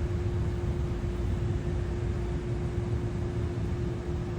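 Steady machine hum: a constant mid-pitched tone over a low rumble and an even hiss.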